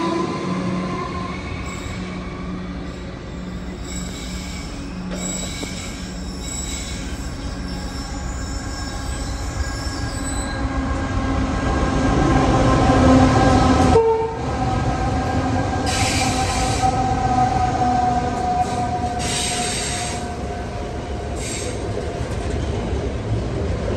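Freight train passing close by: two Aurizon ACD-class diesel locomotives run past, loudest about halfway through, followed by container wagons rolling on the rails. Brief high squeals ring out two or three times as the wagons go by.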